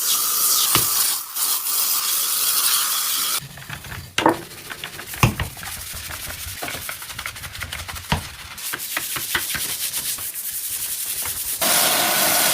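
Hand scrubbing and rubbing on a household surface, with quick back-and-forth strokes and a few knocks. A steady rushing noise plays over the first few seconds and starts again near the end.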